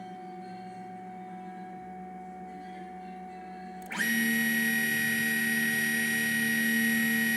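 Small four-axis CNC machine running with a steady tonal motor whine; about four seconds in, a much louder whine at a fixed pitch starts abruptly and holds steady.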